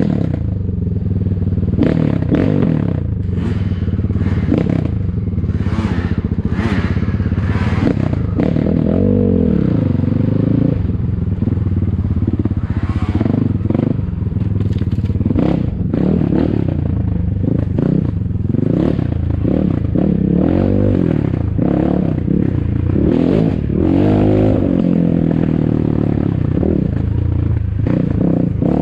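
ATAKI DR 250 enduro motorcycle engine running hard off-road, revving up and down repeatedly as the rider works the throttle. Frequent clattering and knocking from the bike over rough ground runs through it.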